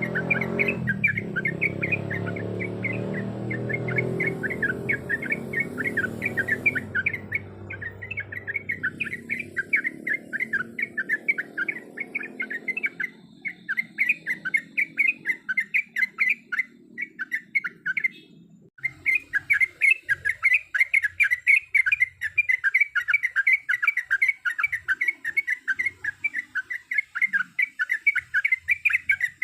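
Yellow-vented bulbul (trucuk) calling in a rapid, steady run of short chattering notes, several a second. A low rumble underneath fades away over the first half, and the calling breaks off for a moment about two-thirds of the way through.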